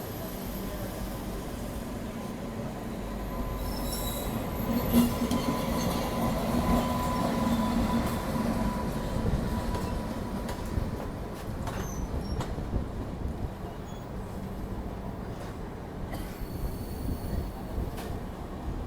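Train running on the rails: a steady rumble with a faint steady whine that swells and fades over the first half, and scattered clicks.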